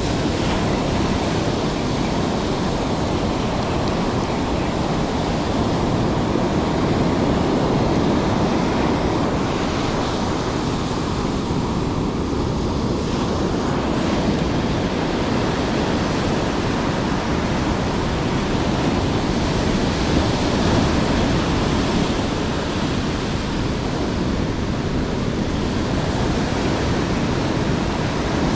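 Heavy rain coming down hard, a steady loud rushing hiss with wind buffeting the microphone.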